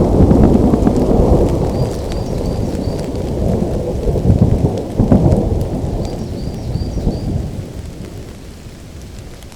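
Rolling thunder over steady rain: a loud rumble that swells again with a sharper crack about five seconds in, then fades away toward the end while the rain continues.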